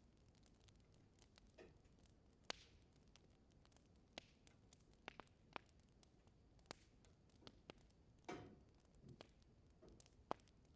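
Wood fire burning in a fireplace, crackling faintly: scattered sharp pops and ticks with a few short, softer hissing flares. The loudest pops come about two and a half seconds in and near the end.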